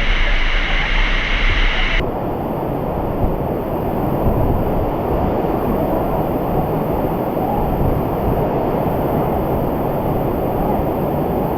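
Waterfall: a steady, loud rush of falling water, which turns abruptly duller and deeper about two seconds in.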